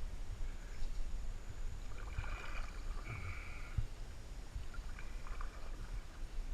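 Canoe on a river: water lapping against the hull and a few soft knocks on the canoe, over a low rumble of wind on the microphone.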